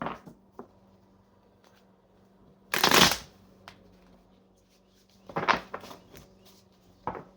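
A tarot deck being shuffled by hand in four short bursts, the loudest about three seconds in.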